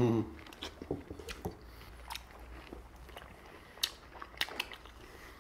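People biting and chewing whole oranges with the peel on: scattered short clicks of chewing, with a few sharper bites about a second in and near four seconds.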